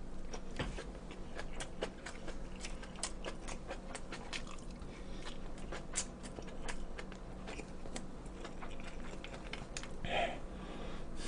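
Close-up chewing and biting of food, with many small irregular clicks, some from chopsticks against the dishes.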